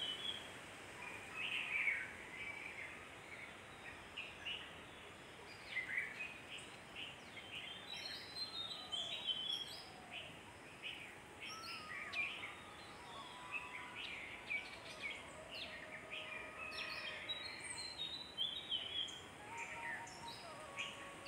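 Several birds chirping and whistling in the background, short calls coming every second or so over a faint steady hiss of outdoor noise.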